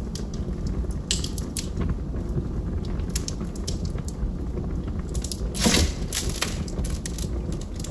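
Wood fire in a fireplace crackling: a steady low rumble of the burning fire with scattered sharp pops and snaps from the wood, and one louder pop with a brief hiss a little over five and a half seconds in.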